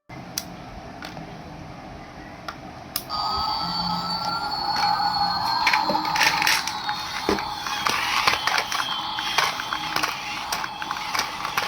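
A small electric motor in a remote-control toy starting up about three seconds in after a few clicks, then running with a steady whine whose pitch slowly shifts, amid gear rattle and clicking.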